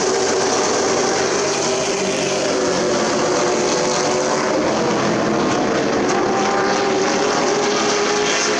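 Race truck engines running together at speed on an oval track, a steady, loud engine drone with no sharp events.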